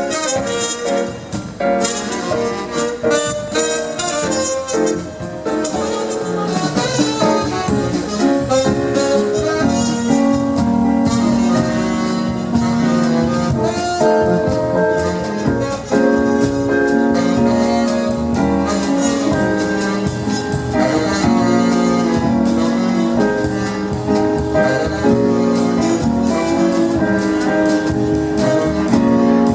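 Live jazz band playing, with horn lines over piano, bass and drums.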